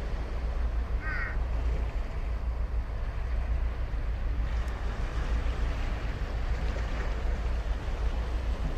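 Steady surf washing on a sandy beach, with a low rumble under it. A crow caws once, briefly, about a second in.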